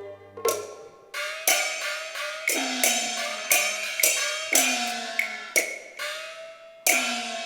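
Cantonese opera percussion: gongs struck in a brisk rhythmic pattern of about three strokes a second, each stroke ringing on with a tone that bends in pitch, and a last stroke near the end.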